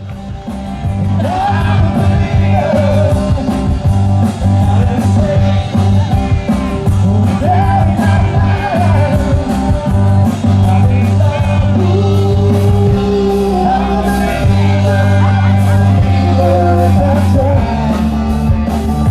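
Rock music with a singing voice over bass, guitar and drums.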